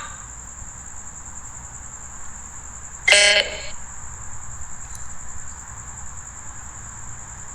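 Crickets chirping in a steady high-pitched trill. About three seconds in, a brief loud pitched sound, like a short honk, cuts in over them.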